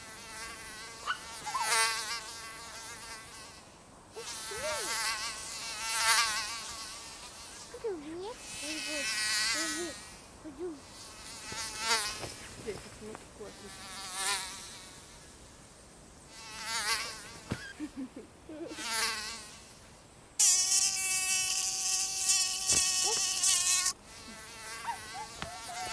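A mosquito buzzing in flight: a thin, high whine whose pitch wavers. It swells loud and fades away again and again as the insect flies close past and off, and holds loudest for a few seconds near the end.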